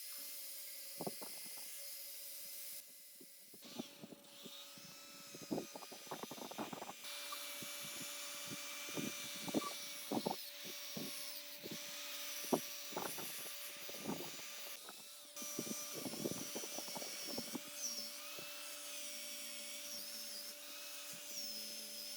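Workshop tool work: a steady hum and hiss with irregular knocks and clicks throughout.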